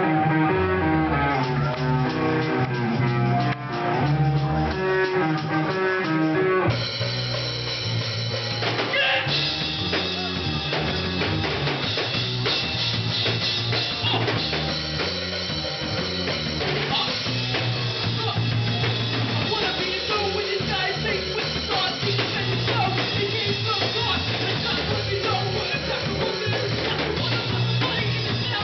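Live rock band playing an instrumental passage with drum kit and guitar, the sound growing fuller and brighter with cymbals about seven seconds in.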